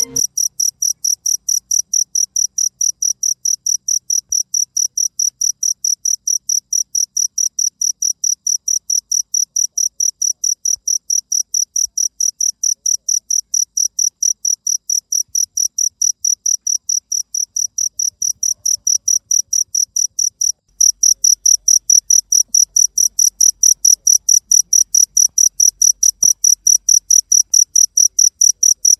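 Cricket chirping steadily in an even high-pitched pulse, about four chirps a second. There is a brief break about two-thirds of the way through, and it comes back louder.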